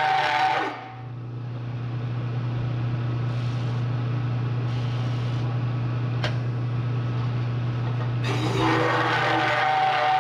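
A Harbor Freight hole saw in a Bridgeport milling machine cutting into a steel tube, a harsh grinding with a steady squeal. It stops just under a second in, leaving the mill's motor humming, then bites in again about eight seconds in.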